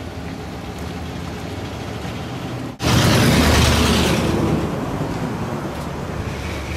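Steady vehicle road noise, a low rumble with hiss. It gets suddenly louder about three seconds in, then slowly fades.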